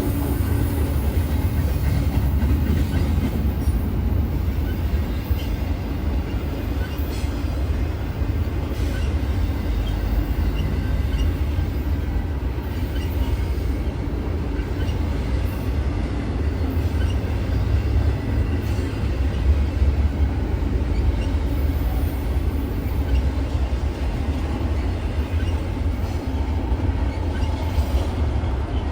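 A freight train's cars rolling steadily past on the rails: a continuous low rumble with faint ticks of the wheels over the track.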